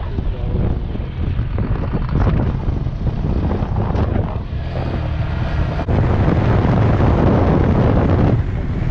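Honda Grom's small single-cylinder engine running while riding, with wind buffeting the helmet-mounted microphone; louder from about six seconds in.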